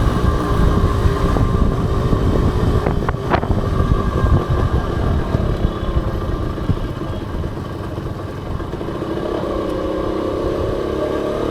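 Honda H100S motorcycle's small two-stroke single-cylinder engine running while riding, with heavy low rumble on the action camera's microphone. A short high squeak about three seconds in. The engine note eases after about eight seconds, then steadies and rises slightly near the end.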